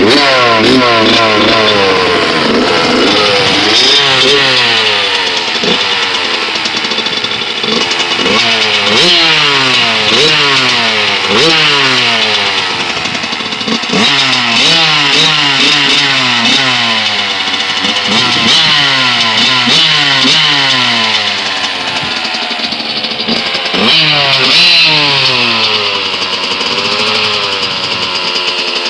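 Suzuki RM80's small single-cylinder two-stroke engine running after a cold start, revved in repeated throttle blips: the pitch rises and falls every second or two throughout.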